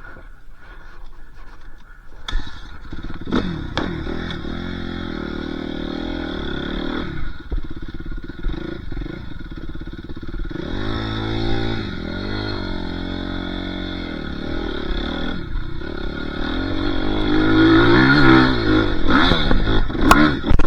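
Dirt bike engine that comes in with a sharp click about two seconds in, then runs and revs up and down several times. It climbs in pitch and grows louder near the end.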